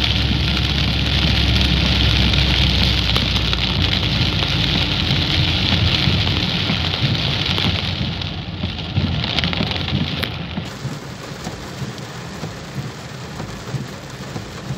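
Heavy rain pelting a car's roof and windshield, heard from inside the moving car, over the low rumble of the car on the wet road. It gets quieter from about eight seconds in.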